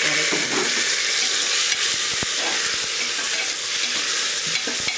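Chopped tomatoes sizzling in hot oil with fried onions in an aluminium pressure cooker: a steady frying hiss as they are sautéed, with a light knock of the spatula on the pot about two seconds in.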